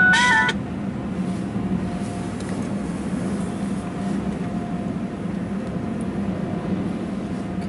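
A short electronic chime of a few stepped tones at the start, then the steady low hum of touchless car wash bay machinery, muffled inside the car.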